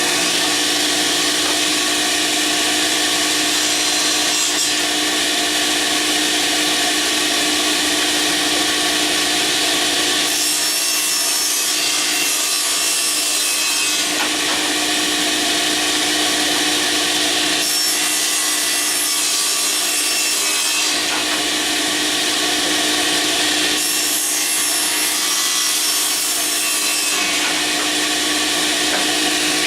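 Table saw running steadily while boards are ripped lengthwise on it, the cutting hiss growing louder three times, about ten, eighteen and twenty-four seconds in.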